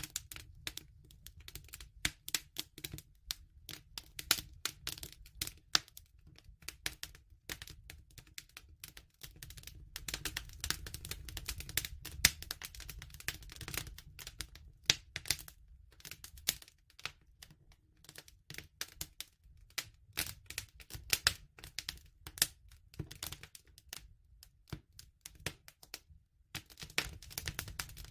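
Campfire crackling: irregular sharp pops and snaps of burning wood, some louder than others, over a low steady rumble.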